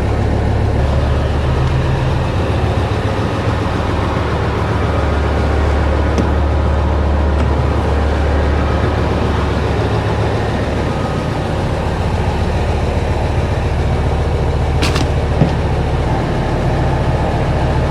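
Diesel fuel tanker lorry running steadily as it pumps marine diesel into a boat's tank, with a low, even engine hum. A single sharp click is heard near the end.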